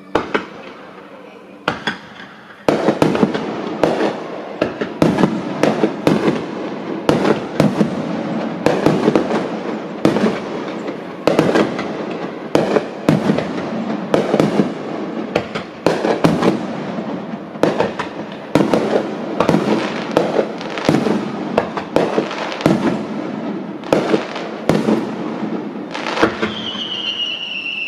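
Fireworks going off in quick succession: a dense, continuous run of sharp bangs and crackles that starts in earnest a few seconds in. A falling whistle is heard near the end.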